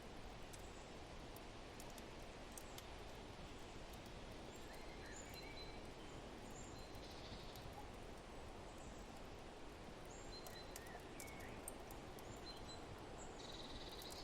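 Steady, soft wind noise with the faint crackle of a wood fire, and short bird chirps scattered through it.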